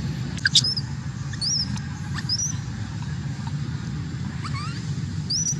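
Short high-pitched squeaks that sweep upward, about half a dozen spread over a few seconds, over a steady low rumble.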